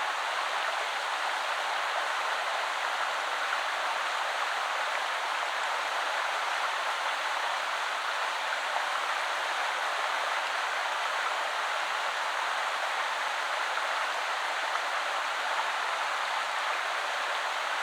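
Small woodland river flowing over stones, a steady, even rush of water.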